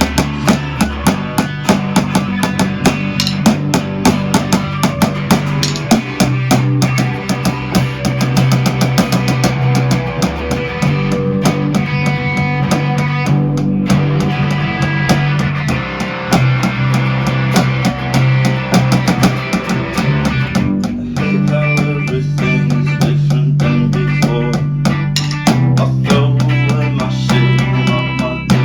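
Rock band playing an instrumental passage: electric guitar, bass guitar and a drum kit with a steady beat of bass drum and snare.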